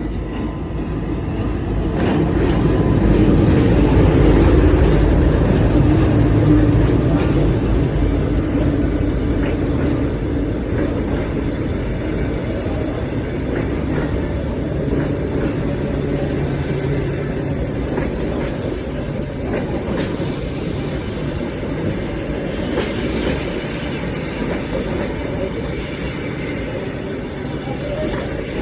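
Passenger train rolling along the track, a heavy continuous rumble of wheels and cars with scattered clicks over the rail joints. It is loudest about four to six seconds in, then eases slowly to a steady running sound.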